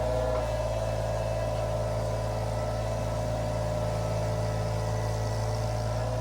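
Iron Rhino IR1200 mini skid steer's engine running at a steady speed with a constant low hum.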